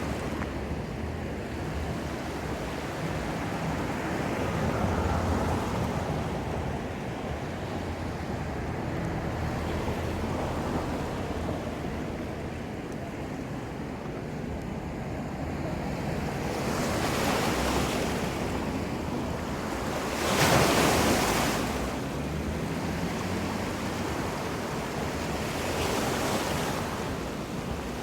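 Ocean surf washing onto the shore, a steady rush with three louder waves breaking, the strongest about two-thirds of the way through. A low rumble of wind on the microphone runs underneath.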